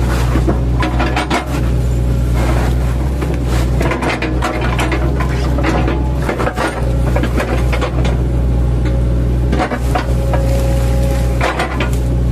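Mini excavator's diesel engine running steadily, with repeated irregular knocks and clatter as its bucket chops felled oil palm trunks.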